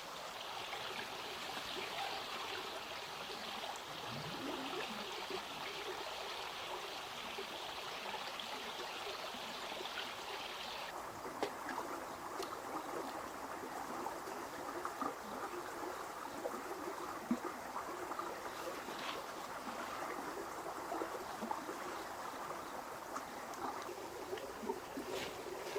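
Steady trickling, running water with a few light clicks scattered through it. A higher hissing layer drops away abruptly about eleven seconds in.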